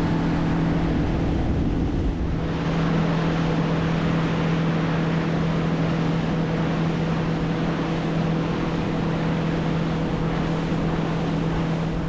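Boat motor running steadily under way, with the rush of water and wind over it; the rushing noise grows fuller a couple of seconds in.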